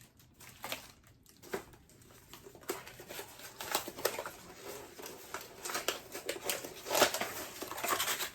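Packaging being opened and rummaged through by hand: a run of crinkling, rustling and small handling clicks, loudest about seven seconds in.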